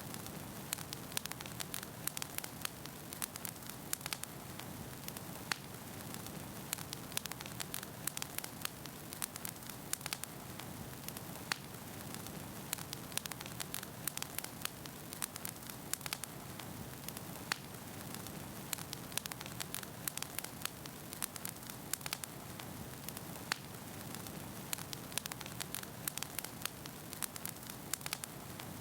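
Wood fire burning in a fireplace: a steady soft hiss and low rumble of flames with frequent sharp crackles and pops from the burning logs, several a second.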